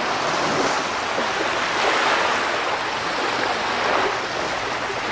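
Sea waves washing onto a shallow shore: a steady rushing wash that swells a little about two seconds in and again about four seconds in.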